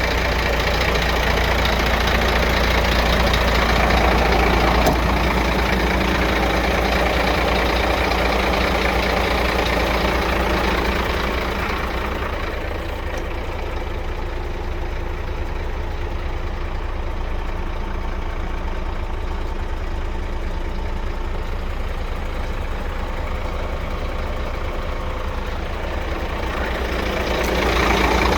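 Scania P380 dump truck's diesel engine running steadily at idle, somewhat quieter from about halfway through and louder again near the end.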